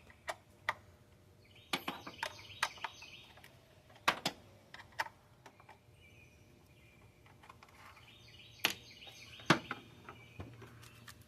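Scattered, irregular metallic clicks and taps of a hand wrench working 10 mm bolts on the engine's intake area, the loudest pair of taps near the end. Faint birdsong chirps in the background.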